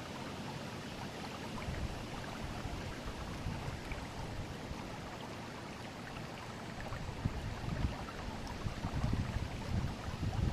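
Forest river flowing, a steady rushing of water, with low rumbling surges growing louder in the last few seconds.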